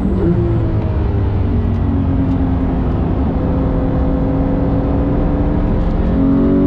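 Porsche 911 GT3 (991.2) 4.0-litre flat-six, heard from inside the cabin on track: revs falling at first, then held nearly steady through a corner, and climbing again near the end as the throttle opens, over steady tyre and road noise.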